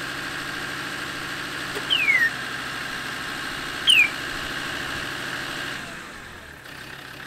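A vehicle engine idling steadily, with an even rhythmic hum, which drops away about six seconds in. Two short falling whistles sound over it, about two seconds apart.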